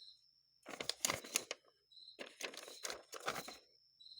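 Two spells of crinkly rustling from paper or plastic being handled, the second longer, while the parts and float gauge of a carburetor rebuild kit are fiddled with. Crickets chirp faintly and steadily throughout.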